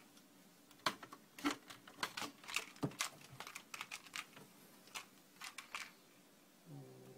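Irregular light clicks and taps, a few to several a second, as a cat bats and paws at a mouse on a hard surface. A brief low hum comes near the end.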